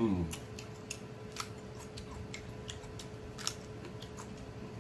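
Close-miked eating sounds: a short falling "mm" at the start, then sharp, irregular clicks of chewing and lip smacking. A faint steady hum runs underneath.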